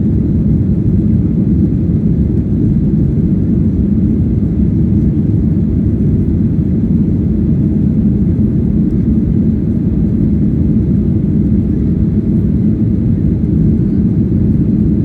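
Steady low rumble inside the cabin of a Boeing 737-800 in flight: the CFM56-7B jet engines and airflow heard from a window seat.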